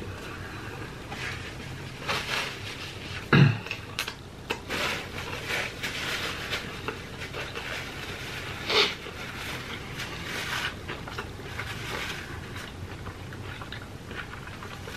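Close-miked chewing and wet mouth noises from someone working through a mouthful of boneless fried chicken wing, in irregular small bursts. There is a louder low thump about three and a half seconds in and another sharp sound near nine seconds.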